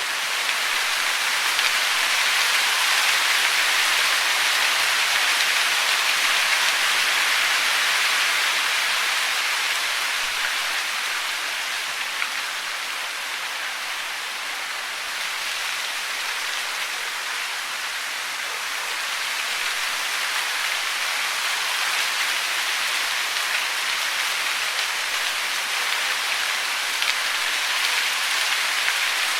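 Steady hiss of falling water, with no birdsong. It swells slowly in the first few seconds, eases off around the middle and builds again toward the end.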